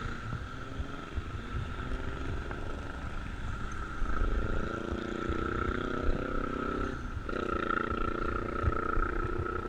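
Wind buffeting the microphone and road noise from a moving bicycle, with a steady high hum throughout. About four seconds in a low, droning hum joins, dropping out briefly near the seven-second mark before resuming.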